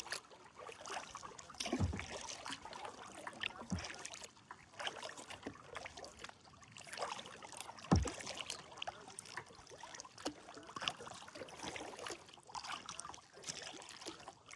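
Kayak paddling: blades dipping and pulling through the water with trickling drips, irregular swishes throughout, and a few dull knocks, the loudest about eight seconds in.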